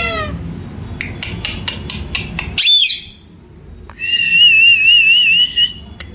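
Pet parrot calling and whistling: a run of sharp clicks, then a short falling squawk about two and a half seconds in, then a wavering whistle lasting about a second and a half from four seconds in.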